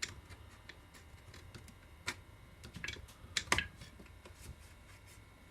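Scattered light clicks and taps of small chainsaw parts being handled as the carburettor and its Bakelite mount on a Stihl 041 are lifted and flexed by hand. The sharpest knocks come about two seconds in and twice near three and a half seconds.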